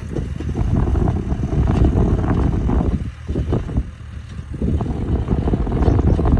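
Yanmar F535 compact tractor's diesel engine running under load while plowing, an uneven low rumble that eases briefly a little past the middle.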